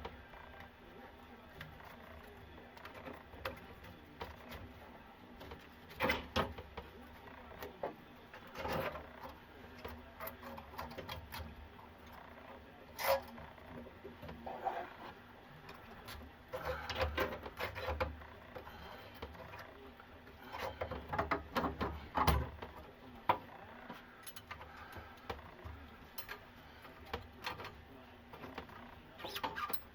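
Irregular knocks, clinks and scraping of hand tools and plumbing parts being handled, with several sharper knocks and a few longer bouts of rattling.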